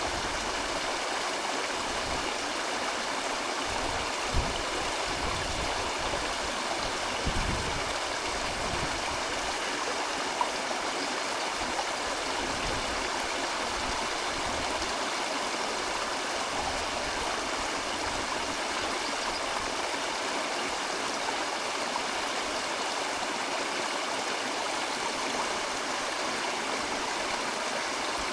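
River water rushing and gurgling steadily, with a few brief low knocks about 4, 7 and 10 seconds in.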